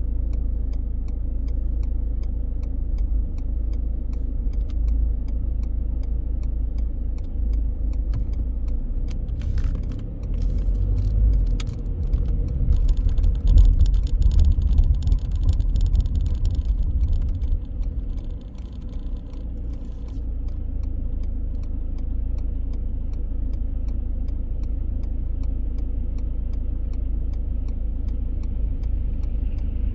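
Car driving through city streets: a steady low road and engine rumble that grows louder and busier from about ten seconds in, dips briefly near eighteen seconds, then settles again. Faint regular ticking runs underneath.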